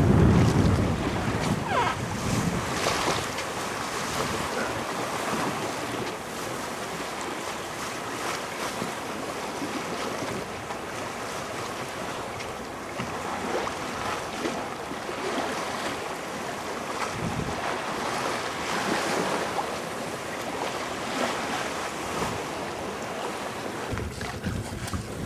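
Wind buffeting the microphone and water washing and splashing along a sailboat's hull as it sails, rising and falling in uneven swells.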